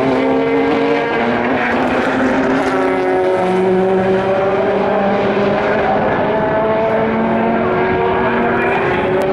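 Several race car engines running together, loud and steady, each holding a pitch and then stepping to another every second or two as the cars change gear.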